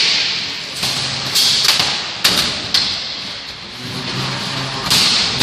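3 lb beetleweight combat robots fighting: about five sharp bangs as they hit each other, over the steady whir of their drive and weapon motors.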